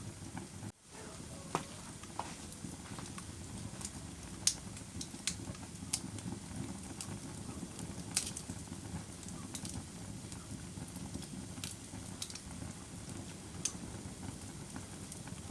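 Wood fire burning in a fireplace: a steady low roar of flames with sharp, irregular crackles and pops from the burning wood. There is a brief dropout just under a second in.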